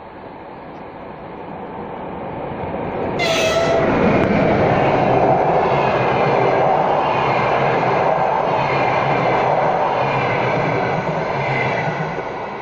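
Passenger train approaching and passing the station. Its rumble builds steadily, stays loud for most of the time and falls away near the end. A short horn sounds about three seconds in.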